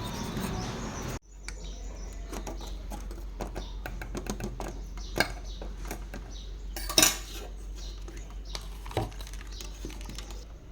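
Scattered light clinks and taps of small metal parts and tools being handled, with a louder clank about seven seconds in. A stretch of dense noise in the first second cuts off abruptly.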